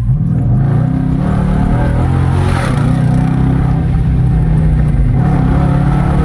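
Dodge Charger R/T's 5.7 HEMI V8, resonator deleted and mid mufflers cut, running loud and steady under way, its pitch wavering slightly.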